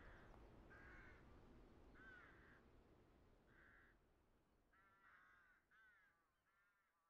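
Faint bird calls, short and repeated about once a second and then several in quicker succession near the end, over a low background rumble, all fading away.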